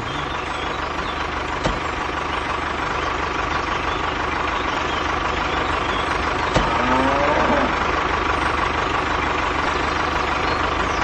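Truck engine running steadily, with a steady high whine over it and a couple of sharp clicks.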